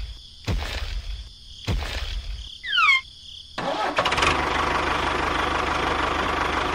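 Small electric motor, as used in a DIY model tractor, starting about three and a half seconds in and then running steadily with a buzzing hum. It is preceded by two knocks and a short falling whistle.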